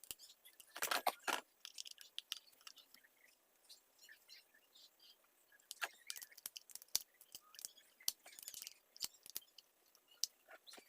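Irregular clicks, taps and short scrapes of small metal and plastic parts being handled and wiped while a mini chainsaw is cleaned, with louder clusters about a second in and again past the middle.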